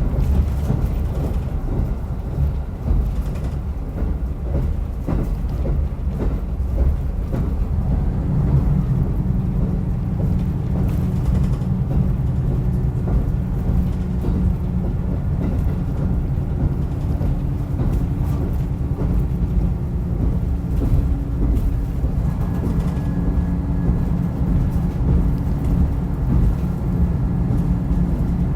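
Diesel railcar running on the Rumoi Main Line, heard on board: a steady low rumble of engine and wheels on rail, with a higher engine tone coming up about two-thirds of the way through.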